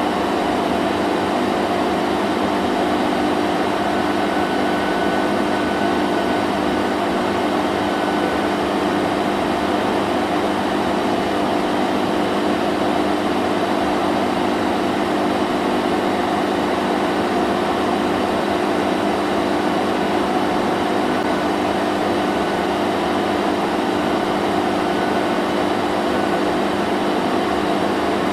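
Vacuum cleaner running steadily: a constant motor hum with a whooshing rush of air, unchanging throughout.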